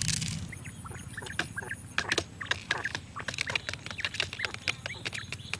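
Small birds chirping in quick, short calls, mixed with light clicks and taps, over a steady low rumble.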